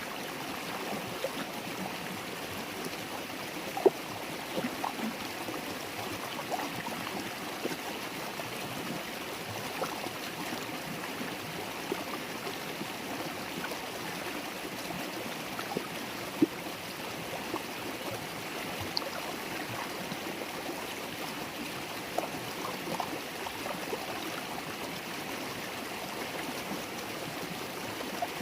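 River water babbling steadily over its bed, with small splashes and plinks scattered through it, a sharper one about four seconds in.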